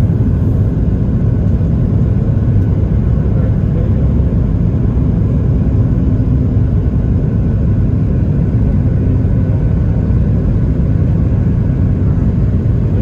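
Boeing 737 MAX 8 jet airliner noise: a steady, loud, low rumble that holds even throughout.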